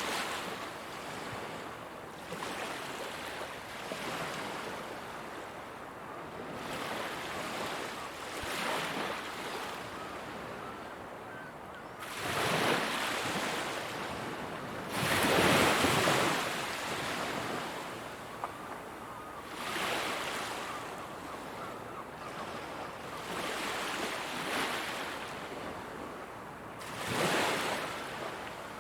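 Ocean waves breaking on a shore, one rushing surge every few seconds over a steady wash of surf, the largest about halfway through.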